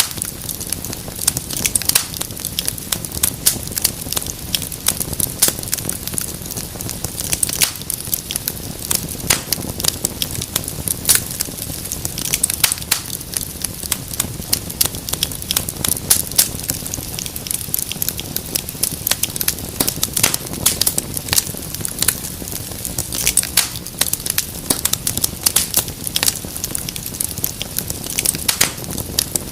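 Wood fire in a fireplace crackling: a dense, irregular run of sharp pops and snaps over a soft steady hiss.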